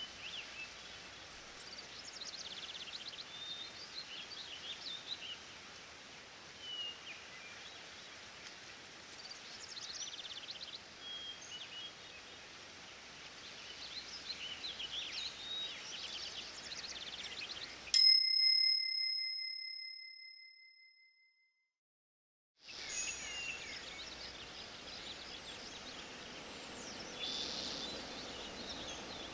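Forest ambience with many birds singing. About two thirds of the way through, a single bell ding rings out and fades into a few seconds of silence, the timer signal marking the end of a one-minute set; then the birdsong resumes.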